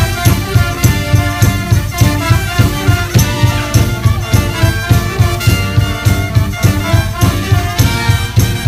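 Brass band playing live: trumpets and trombones carry the tune over a steady low beat of about two pulses a second.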